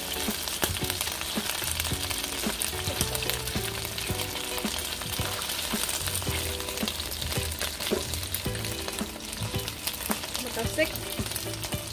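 Chicken pieces frying in hot oil in a nonstick pan, a steady sizzle with many small pops of spattering oil, and a silicone spatula moving the pieces around the pan.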